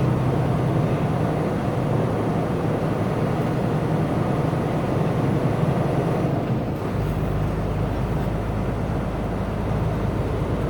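Steady road noise inside a car on the highway: tyre and engine rumble with a hiss, its deepest rumble changing about seven seconds in.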